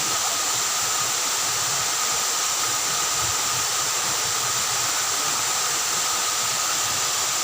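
Steady rushing water noise, even and unbroken, with a faint steady high whine over it.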